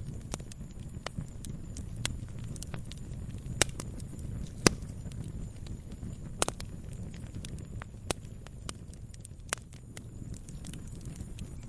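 Campfire crackling: irregular sharp pops and snaps over a steady low rumble, the loudest pop a little under five seconds in.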